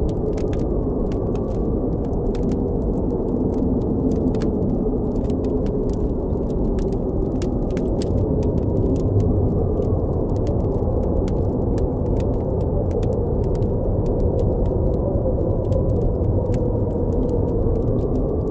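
Blizzard wind blowing steadily, a deep rushing noise with a faint wavering howl, over a campfire crackling with frequent small sharp pops.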